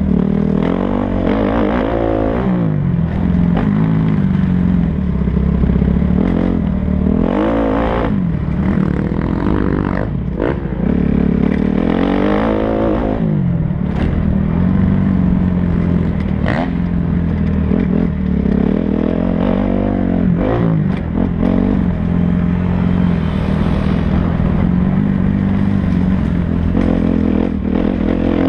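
Motocross bike engines revving up and down over and over, each rev rising and falling within a second or two, with a few sharp clicks.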